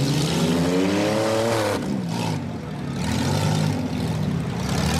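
Demolition derby car engines running, one revving up steadily over the first second and a half before dropping back, with the others carrying on at lower revs.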